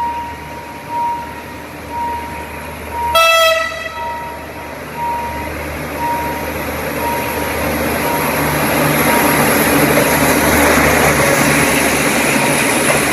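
Level-crossing warning bell dinging about once a second. About three seconds in comes one short blast of the AHK diesel locomotive's horn, then the train's running noise builds up and stays loud as it nears and reaches the crossing.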